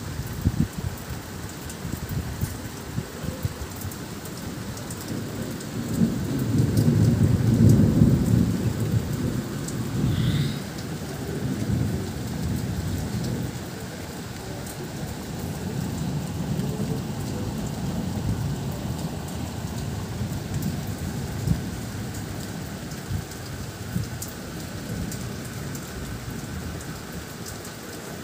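Steady rain falling. About six seconds in, a long low rumble swells up, becomes the loudest sound, and fades over about four seconds. A weaker rumble rises again around the middle.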